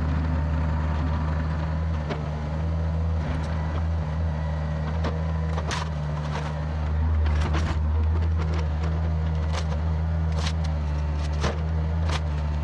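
Yanmar VIO50 mini excavator's diesel engine running steadily as the machine travels, with scattered sharp clanks and knocks from the moving machine.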